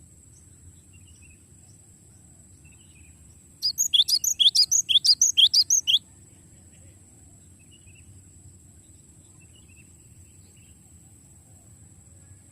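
A gelatik batu (cinereous tit) giving a rapid rolling trill of about a dozen sharp, high notes, about six a second for roughly two seconds, starting nearly four seconds in. Faint scattered chirps and a steady low hiss fill the rest.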